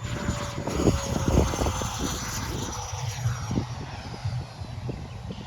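Radio-controlled model jet flying overhead, its high whine slowly falling in pitch as it passes. Wind buffets the microphone with low rumbles and thumps.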